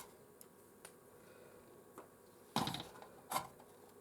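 Scattered light clicks, then two louder short clatters about two and a half and three and a half seconds in: a screwdriver and small Phillips screws being worked out of a PlayStation 4's heatsink.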